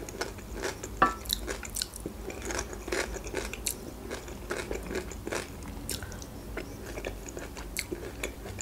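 Close-miked chewing and crunching of fresh chopped cucumber and tomato salad, with wet mouth clicks throughout and one sharp click about a second in.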